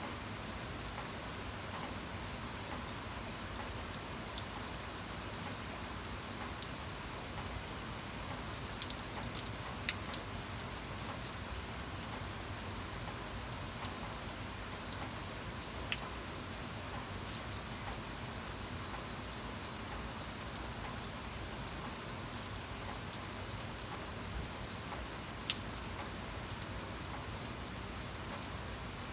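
Steady rain falling, an even hiss with scattered single drops ticking sharply above it.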